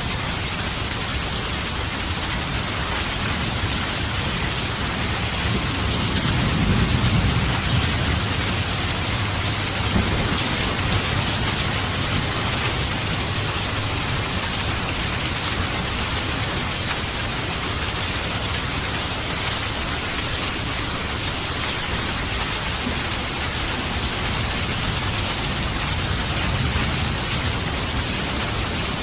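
Steady heavy rain with rolling thunder: a low rumble swells about a quarter of the way in and fades over a few seconds, with fainter rumbles later.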